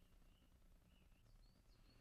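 Near silence, with a few faint, high bird chirps over a low background rumble.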